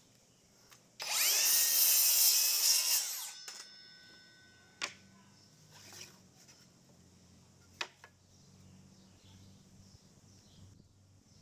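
Power drill driving a screw into wood for about two seconds, with the motor whine fading out after it stops. Two sharp clicks follow a few seconds apart.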